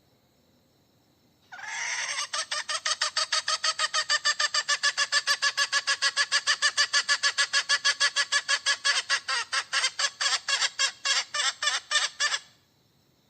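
Hen calling in a long, even run of short clucking notes, about five a second, that starts a second and a half in and stops sharply near the end.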